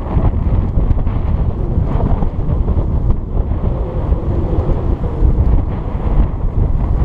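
Strong, gusty wind buffeting the microphone: a loud, steady rumble with constant small surges.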